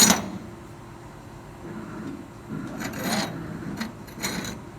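A sharp knock right at the start, then two short scraping sounds about three and four seconds in, over a faint low steady hum.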